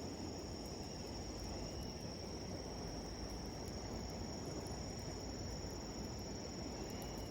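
Crickets trilling steadily in one high, unbroken tone over the even rushing hiss of a flowing river, with faint light crackles from a wood campfire.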